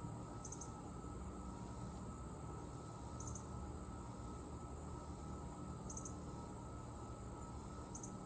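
Faint insect chorus: a steady high-pitched trill, with a short high triple chirp repeating about every three seconds, over a low background rumble.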